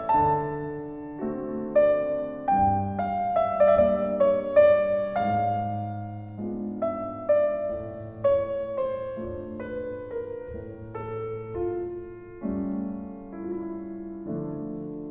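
Solo piano background music: a slow, gentle melody of single notes over sustained chords, each note struck and left to ring.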